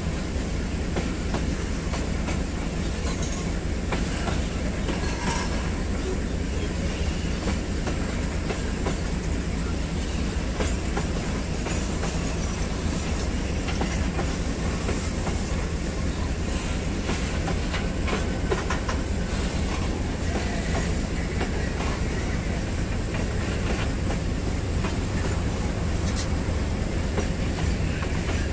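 Freight train wagons rolling steadily along the track with a low rumble, their wheels clicking over the rail joints.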